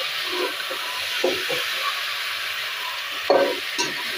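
Chicken pieces and browned onions frying in hot oil in an aluminium pressure cooker, a steady sizzle, while a metal spoon stirs them. The spoon knocks against the pot a few times, loudest a little past three seconds in.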